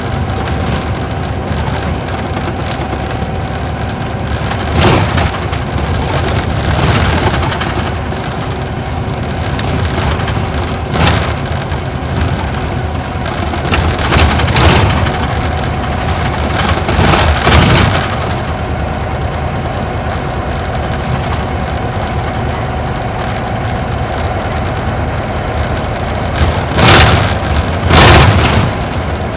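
Isuzu Gala coach (KL-LV781R2) heard from inside while driving, its V-type diesel engine running steadily under road noise. Several short, loud knocks and rattles break through, the loudest two near the end.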